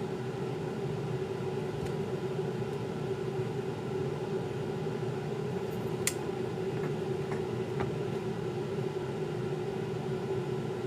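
Steady mechanical hum with a held mid-pitched tone, like a fan or small motor running, with a faint click about six seconds in and a few light ticks after it.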